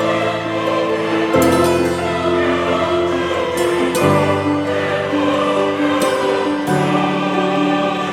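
Background music: sustained choir-like chords over a bass line, the chord changing about every two and a half seconds.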